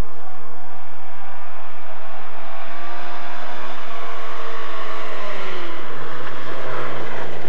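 A rally car's engine revving hard as the car approaches at speed, its note climbing and dropping in several sweeps through the gears. The pitch falls off about six seconds in, and the car gets louder as it reaches the end.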